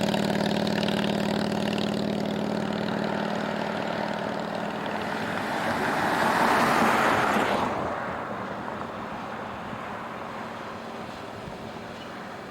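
Electric steeple-cab freight locomotive going by: a steady electric hum made of several pitches, with a broad rushing noise that swells to its loudest about six to seven seconds in and then fades away.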